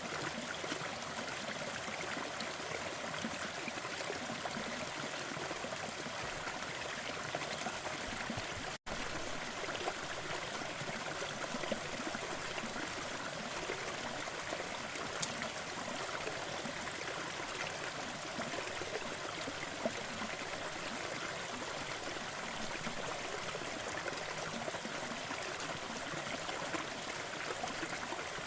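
Waterfall: a steady rush of falling, splashing water, with a momentary dropout about nine seconds in.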